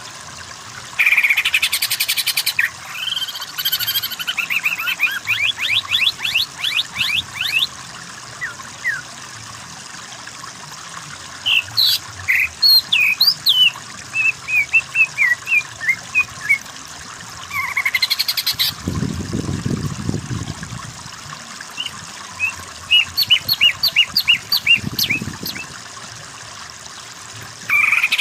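Green leafbird (cucak ijo) singing a varied song: loud buzzy bursts, fast runs of rising chirps and scattered whistled notes, with short pauses between phrases.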